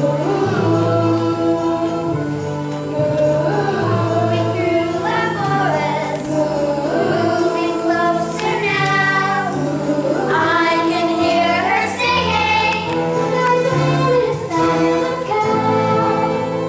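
A choir of voices singing over instrumental accompaniment with held low notes, in a musical number.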